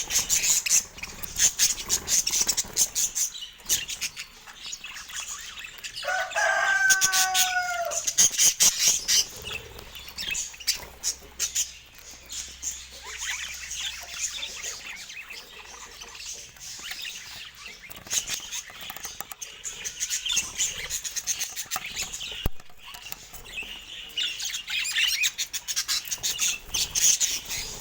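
Budgerigars chirping and chattering continuously, with many quick clicks and rustles mixed in. One lower, louder call with a falling pitch comes about six to seven seconds in.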